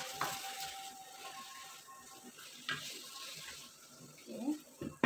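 Chicken sambal sizzling and bubbling in a non-stick wok over a gas flame, with a wooden spatula scraping and knocking against the pan as it is stirred. A few sharper knocks come near the end.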